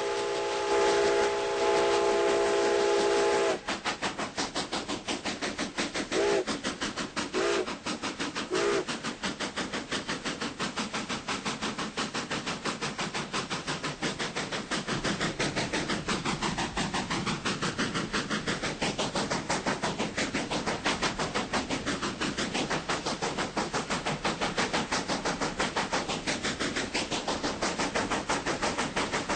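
A train sounds a held chord of several notes that cuts off sharply about three and a half seconds in. Then comes a fast, even rhythmic beat with hiss from a train on the move, with three short tones about a second apart between roughly six and nine seconds in.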